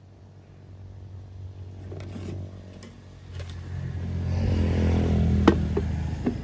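A motor vehicle's engine passing close by, growing louder to a peak about five seconds in and then easing off, with a sharp click near the end.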